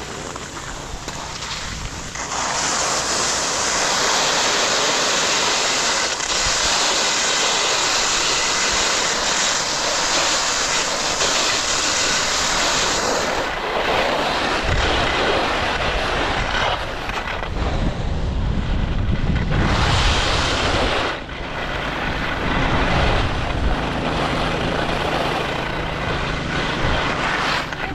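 Skis side-slipping down a race course, their edges scraping and pushing loose snow in a loud steady hiss. About halfway through the hiss eases and wind buffets the microphone in gusts.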